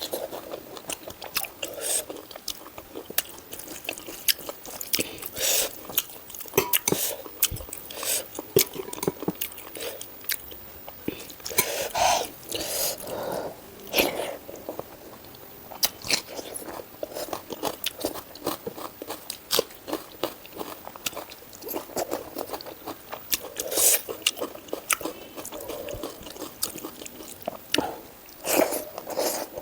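Close-miked chewing and biting of food, with many irregular sharp mouth clicks and short crunches.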